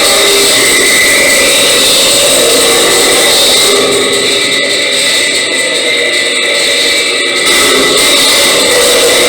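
Heavy metal recording slowed, pitched down and soaked in reverb, making a loud, dense, steady roar. It jumps up in level right at the start.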